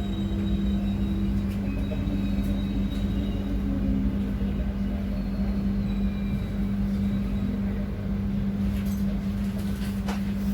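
Passenger train running: a steady low rumble under a constant hum, with a few sharp clicks near the end.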